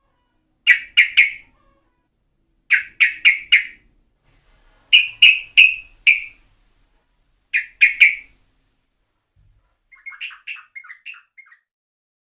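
Yellow-vented bulbul (trucukan) calling in loud bursts of three or four quick notes, four bursts about two seconds apart, followed near the end by a softer run of short chattering notes.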